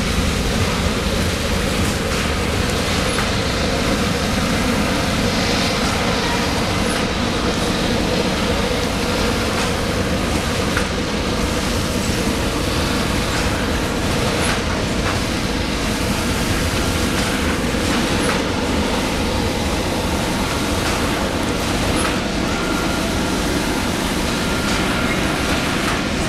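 Loaded coal hopper cars of a freight train rolling past on jointed track, a steady heavy rumble with occasional faint clicks of wheels over the rails.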